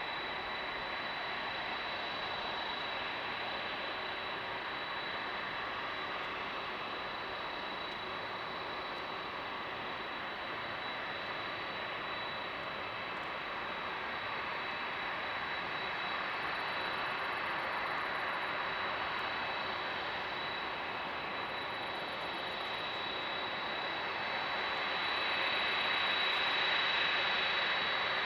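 Airbus A319's CFM56 jet engines running: a steady roar with a high, even whine over it, growing a little louder near the end.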